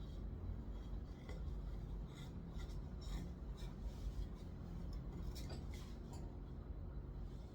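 Pencil strokes scratching on paper, short and irregular, over a low steady hum.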